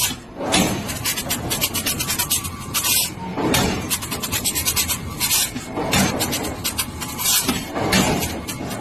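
Train wheels running on the rails: a rapid, rasping scrape-and-clatter that swells and eases every couple of seconds.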